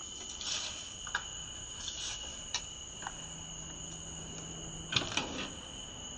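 Crickets trilling steadily, with a few faint clicks and a sharper knock about five seconds in.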